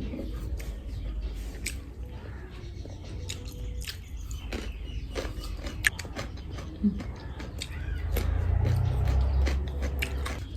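Close-miked chewing and eating: scattered small clicks and mouth sounds over a steady low hum, which swells louder for a second or so near the end.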